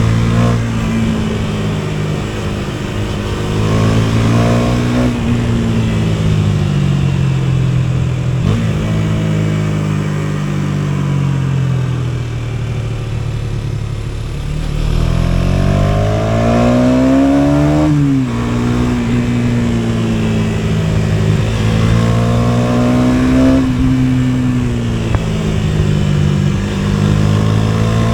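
KTM Duke 250's single-cylinder four-stroke engine under way, revving. The pitch climbs and then drops sharply several times, as with upshifts, with the steepest climb and sharpest drop about two-thirds of the way through, and it falls slowly for a few seconds near the middle as the bike eases off.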